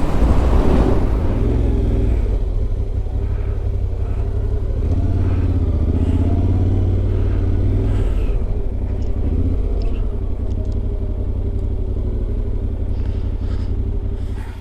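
Yamaha Ténéré 700's 689 cc parallel-twin engine running steadily under way, its pitch rising and falling a little around the middle. The sound cuts off suddenly at the end.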